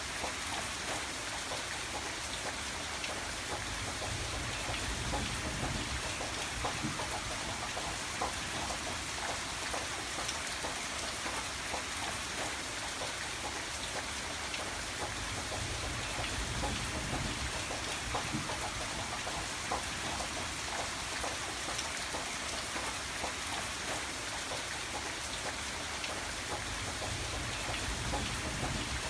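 Steady rain with a dense patter of drops. A low rumble swells and fades about every ten seconds, the first about four seconds in.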